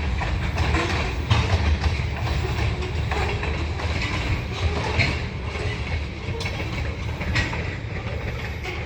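Freight train cars rolling past close by: a steady low rumble of wheels on rail with irregular sharp clacks as wheels cross rail joints, gradually easing in loudness.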